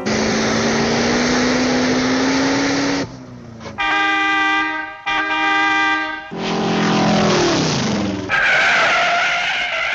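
Car sounds: an engine note rising slowly for about three seconds, then two long steady horn blasts, then a falling pitch glide as it winds down.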